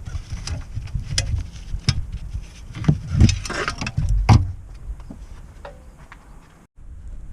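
A few sharp knocks, with a rustling scrape in between, as of tools and metal parts being handled during work on a car.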